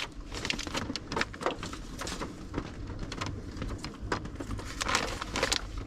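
Paper cards and small items being handled and sorted: light rustling with scattered small clicks and taps.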